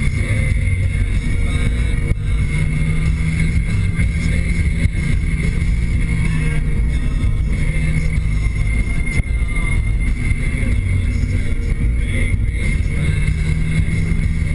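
Cabin sound of a 2013 Nissan Sentra SR's 1.8-litre four-cylinder engine and CVT under way, with tyre and road noise: a steady drone, the CVT holding the revs up. A steady hum swells in for a few seconds at a time, about two seconds in and again near the end.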